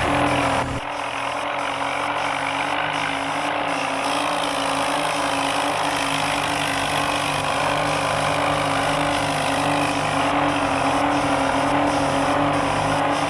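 Motor vehicle engine running steadily, its pitch wavering slightly as if under load. About a second in, the deep low rumble cuts out abruptly and the rest of the engine sound carries on.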